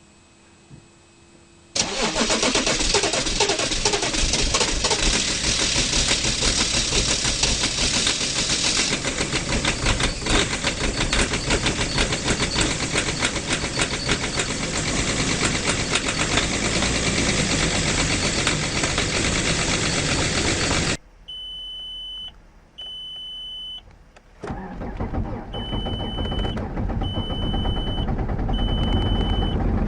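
A diesel engine catching on a cold start about two seconds in and running loud and rough. Later it cuts out to quiet with two high beeps, then an engine starts again and runs, with three more beeps over it.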